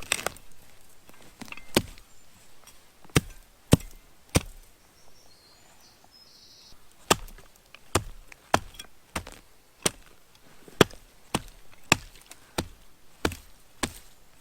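Wood being chopped with a blade: a series of sharp single strikes, a few in the first half, then after a short pause a steady run of roughly one strike every half second.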